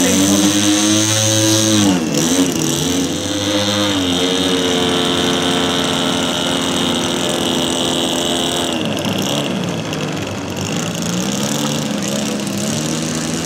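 The twin petrol engines of a giant radio-controlled Cessna 310 model running in flight. Their engine note dips in pitch and recovers about two seconds in, and again around ten seconds in.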